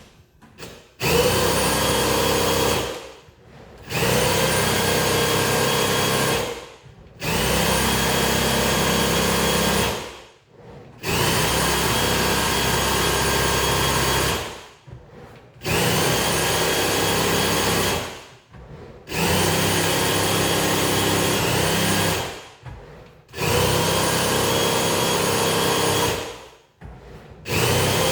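A power tool's electric motor run in repeated bursts of about three seconds each, stopping for about a second between runs, some eight times in all.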